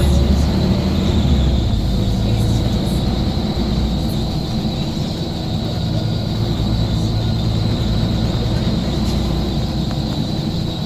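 Scania coach's diesel engine running steadily, a low drone with a constant pitch.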